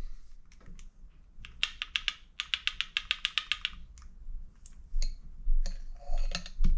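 Small metal carburetor parts clicking and rattling as they are handled during removal of the float, with a quick run of light clicks, about eight a second, lasting about two seconds, and a few single clicks around it.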